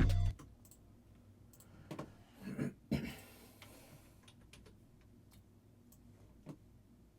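A hip-hop beat playing back cuts off abruptly just after the start, followed by scattered computer mouse and keyboard clicks, with a small flurry of louder clicks and handling noise about two to three seconds in.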